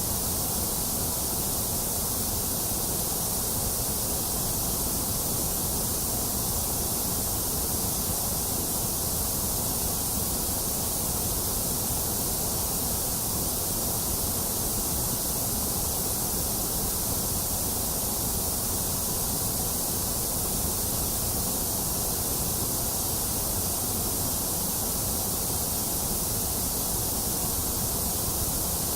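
Steady, unchanging electronic white noise: a continuous even hiss with nothing else in it.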